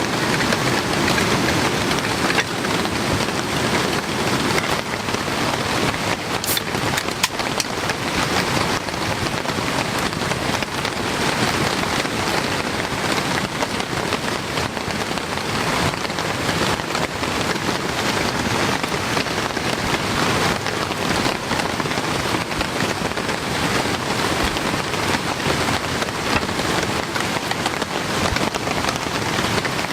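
Heavy rain falling steadily. A few sharp ticks stand out about seven seconds in.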